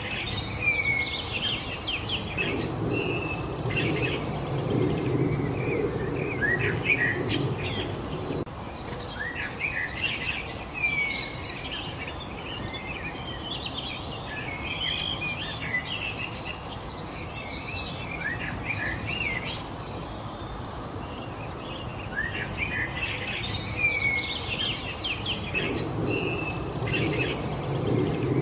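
Several songbirds singing and chirping at once, a steady stream of short high chirps and trills. A low rushing noise swells in twice, a few seconds in until about eight seconds, and again near the end.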